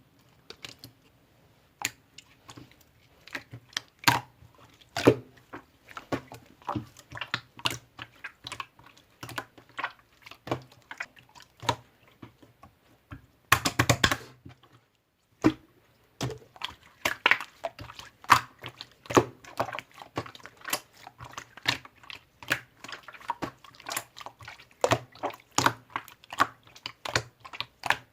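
Slime being kneaded and pressed by hand: a string of irregular sticky clicks and pops, with a denser squishing burst about halfway through.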